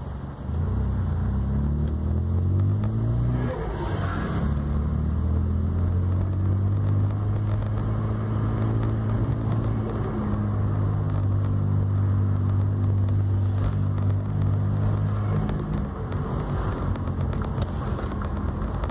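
Volkswagen up! TSI's turbocharged 1.0-litre three-cylinder engine running under way, its note rising and stepping as it changes gear, with a brief rush of air about four seconds in. It runs steadily after that, with another gear change near the middle, and eases off a few seconds before the end.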